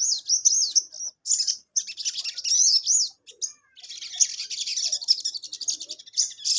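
A sogon sunbird singing hard and without pause: rapid, high twittering phrases of sweeping notes, breaking into a fast buzzy trill about four seconds in.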